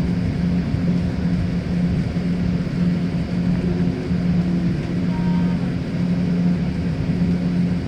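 Airliner cabin noise as the aircraft rolls after landing: a steady engine drone with a low hum that throbs in a slow, even beat, a little faster than once a second.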